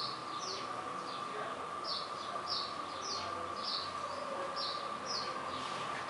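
A small bird chirping over and over, short high notes that fall slightly, coming every half second or so, over a faint steady high-pitched tone.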